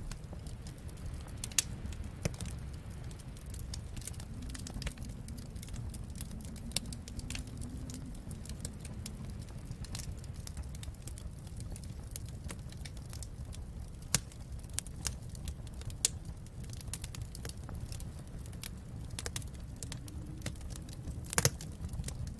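Wood fire crackling in a fireplace: scattered sharp pops and snaps over a steady low rumble, with one louder pop near the end.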